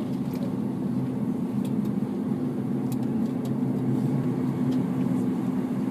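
Dash 8 Q400's Pratt & Whitney PW150A turboprop engines running steadily at low power, heard inside the cabin as a humming drone of several steady tones.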